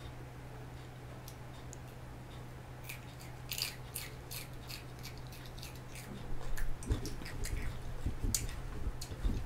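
A person biting into a raw green chilli and chewing it: crisp crunching bites about three and a half seconds in, then chewing.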